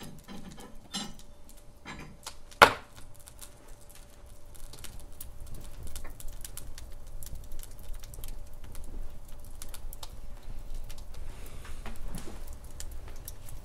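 Wood logs burning in a fireplace, crackling with irregular snaps and pops; one sharp loud pop about two and a half seconds in, and the crackle grows denser after a few seconds.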